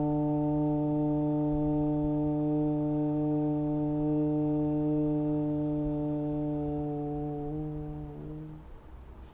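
A single voice chanting one long, steady 'Uuu' (the ukara syllable) aloud on one low pitch in one breath. The pitch wavers slightly about seven and a half seconds in, and the chant stops a second later.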